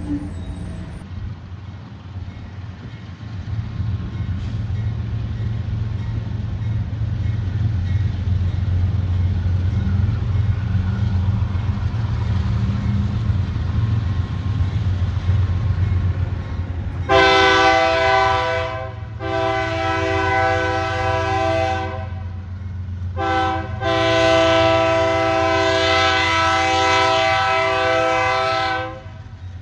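Diesel freight locomotive approaching with a steady low rumble, then its multi-chime air horn sounding two long blasts, a short one and a long one: the long-long-short-long signal for a grade crossing.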